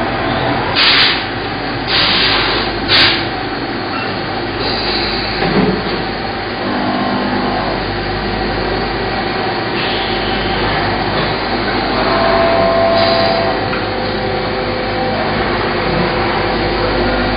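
Steady machinery noise of a CNC machine shop, with faint steady tones running through it and a few short noisy bursts, three of them close together about a second apart near the start.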